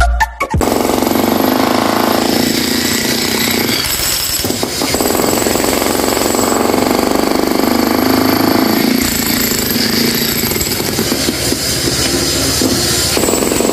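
Jackhammer hammering continuously, starting about half a second in after music cuts off.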